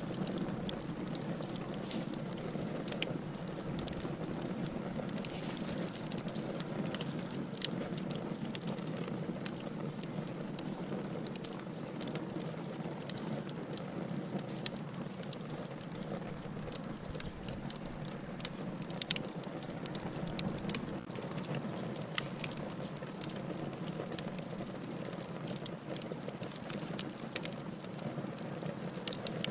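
Wood fire crackling in a fireplace: a steady low rush of burning with frequent sharp, irregular pops and crackles.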